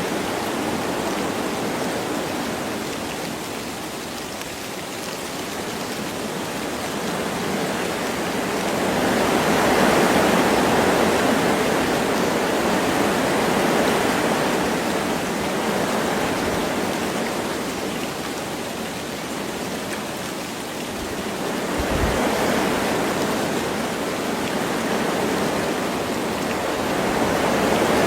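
Wind blowing through forest trees with light rain, a steady rushing that swells and eases in gusts every few seconds.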